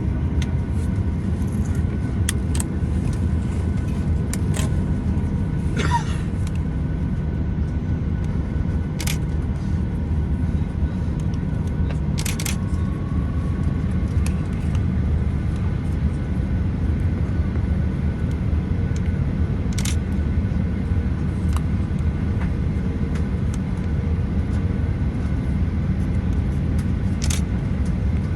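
Steady low rumble of a Boeing 737-800's cabin on the ground, with a few short clicks scattered through it.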